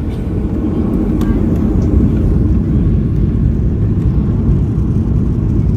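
Boeing 737-800's CFM56-7B jet engines spooling up to takeoff power for the takeoff roll, heard inside the cabin as a loud, steady low rumble. It grows a little louder about two seconds in.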